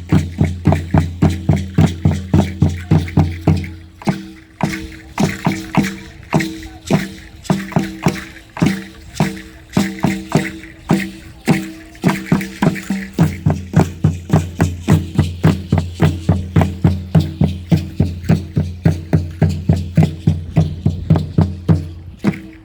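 Danza mexica dance music: a deep drum beaten in a steady fast beat of about three strokes a second, with rattles. The deep drum note drops out for several seconds in the middle, leaving the lighter strokes, then comes back.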